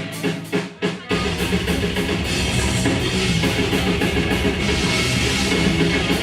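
Grindcore band playing live. A few separate sharp hits open the song, then about a second in the full band comes in with drums and guitars at full volume.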